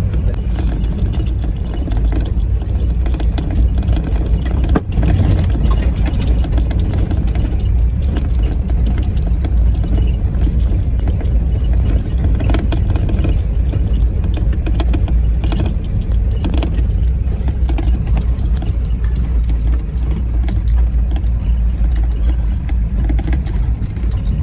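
Off-road vehicle's engine running steadily while driving over rough ground, a continuous low rumble with occasional knocks and rattles.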